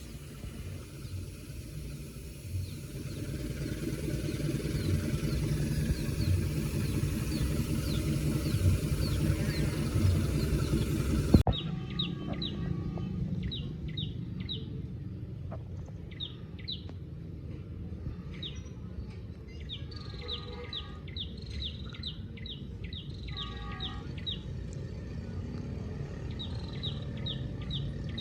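A passenger train rolls past with a steady rumble and regular low thumps about every second and a half, growing louder toward ten seconds in: the thump of a flat-spotted carriage wheel. About eleven seconds in the train sound cuts off abruptly, and birds chirp over a faint background.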